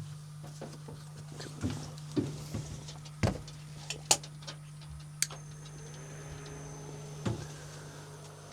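Scattered clicks and knocks of fishing gear and objects being handled, the sharpest about three and four seconds in, over a steady low electric hum.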